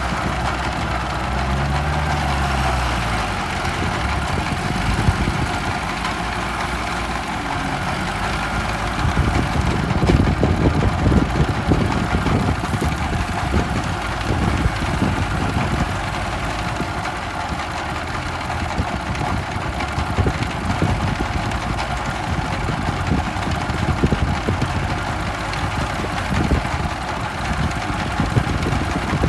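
Tractor engine running steadily under load while plowing, with a dense low chugging throughout. About two seconds in, its note briefly rises and falls.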